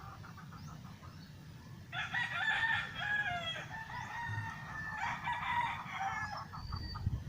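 Two long, pitched bird calls that step in pitch, the first about two seconds in and the second about three seconds later, over a low steady rumble.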